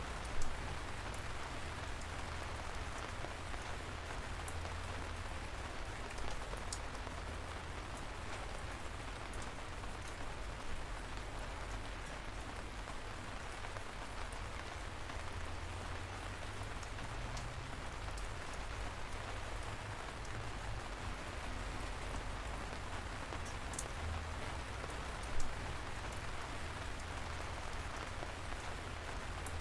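Steady light rain pattering, with a low rumble underneath and single drops ticking sharply now and then, the loudest about half a second in and again near the end.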